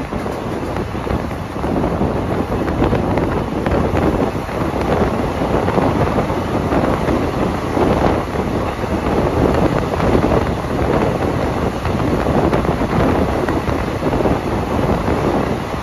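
Steady running noise of a moving passenger train heard from on board, with wind rushing past and buffeting the microphone.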